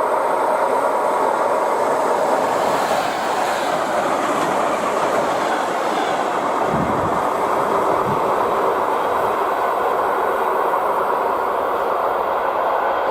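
ER2 electric multiple unit running past at speed: a loud, steady rush of wheel and rail noise.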